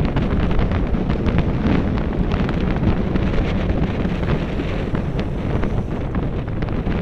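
Wind buffeting the microphone at speed: a loud, steady low rumble with scattered crackles.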